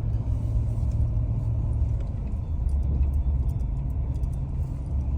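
Steady low rumble of a car driving slowly, heard from inside the cabin: engine and tyres on the road.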